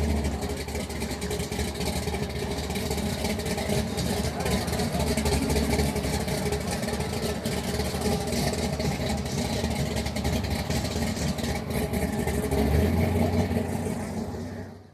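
Car engine running steadily, its low rumble swelling near the end before fading out.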